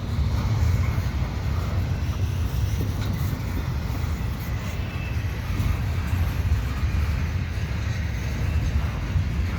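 CN double-stack container freight train rolling slowly past, the cars giving a steady low rumble on the rails.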